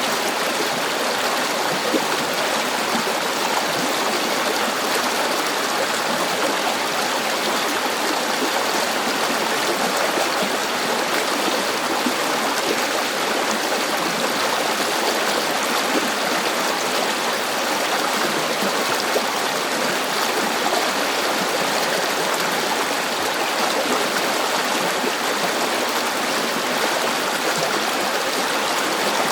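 River water flowing over rocks, a steady rushing and gurgling that does not change.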